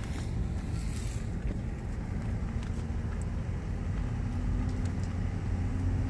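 A vehicle's engine and road noise while driving slowly: a steady low hum, with the engine pitch rising slightly about two-thirds of the way in.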